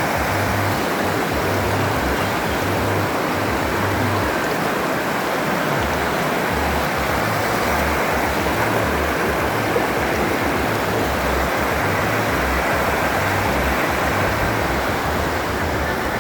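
Steady rush of a waterfall and creek water pouring over rocks.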